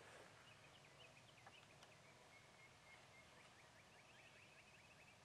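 Near silence: quiet outdoor ambience with faint birds calling, a run of short high chirps repeating several times a second.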